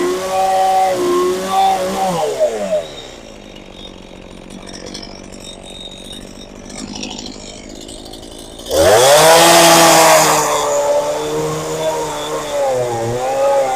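Two-stroke chainsaw running at high revs, then dropping off to a low idle about two and a half seconds in. Near the end it revs sharply back up with a loud burst of noise for about two seconds and keeps running fast.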